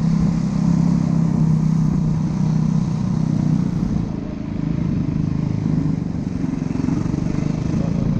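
Dirt bike engine running at a steady speed, holding one pitch, with a brief dip about four seconds in.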